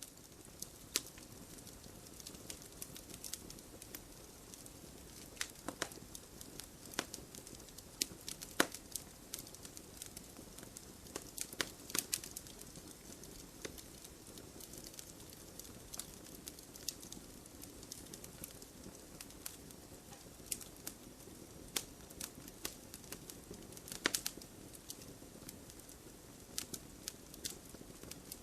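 Fire burning in a fireplace, crackling: irregular sharp pops over a steady low hiss, with a few louder pops in the middle and near the end.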